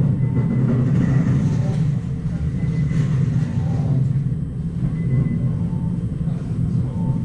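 Rapid Airport electric train running, heard from inside the carriage: a steady low rumble of running gear and wheels on the rails.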